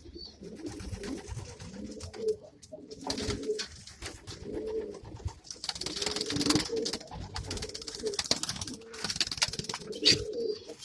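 Domestic pigeons cooing in a loft, several birds overlapping in repeated low coos, with scattered soft clicks and rustles.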